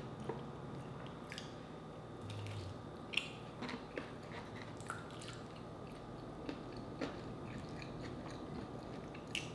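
Close-miked chewing and crunching of crispy fried chicken as it is torn apart by hand and eaten, with scattered short, sharp crackles, the loudest about three seconds in.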